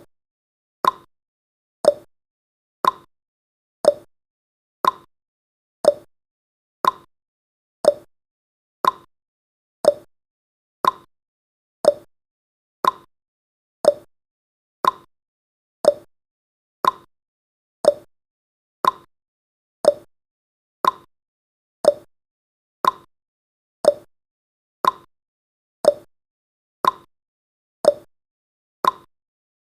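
Countdown timer's tick sound effect: a short, sharp tick once every second, each fading quickly.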